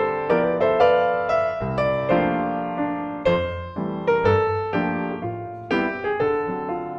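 Background music: a solo piano piece, notes struck in a gentle steady flow, each ringing and fading.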